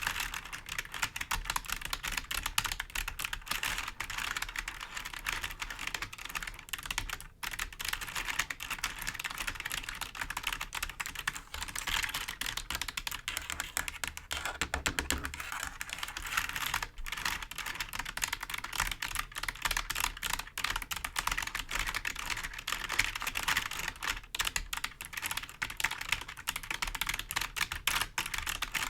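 Computer keyboard being tapped and scratched with the fingers: a dense, continuous run of quick plastic clicks.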